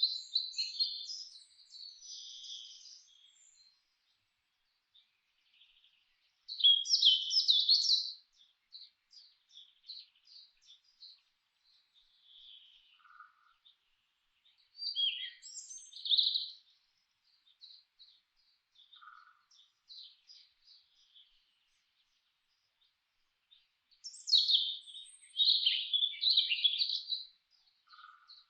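Songbirds singing: four loud bursts of high, rapid song several seconds apart, with scattered quieter chirps between them and a faint short lower note three times.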